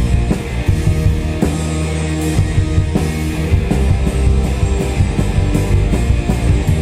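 Rock band playing an instrumental passage: distorted electric guitar, bass and drum kit with regular cymbal and drum hits, no singing.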